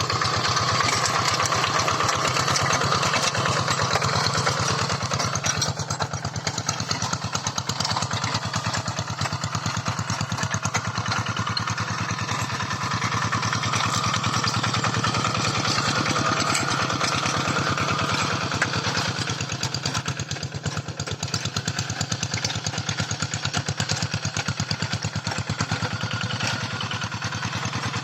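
Tractor engine running steadily at a constant speed, with an even, fast beat.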